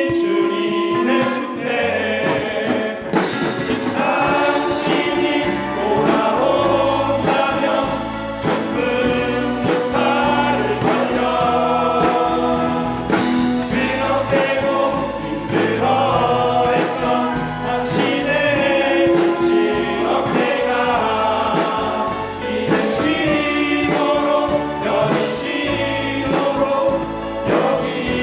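Men's vocal ensemble singing a gospel hymn in harmony, several voices holding and moving between notes together.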